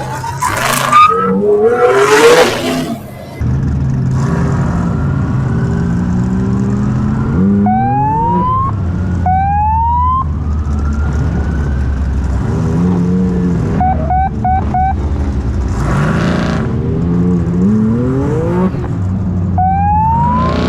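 Side-by-side race car engine under hard acceleration, its pitch climbing in repeated runs that break off and start again. A loud rushing noise covers the first few seconds.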